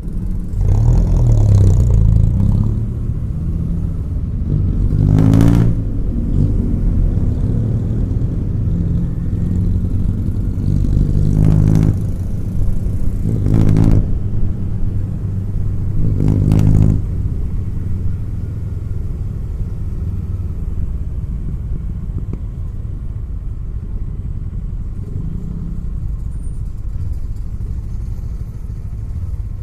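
Kawasaki Eliminator SE motorcycle's parallel-twin engine running under way, with a steady low rumble. It revs up briefly four times in the first seventeen seconds or so, then runs more evenly and a little quieter.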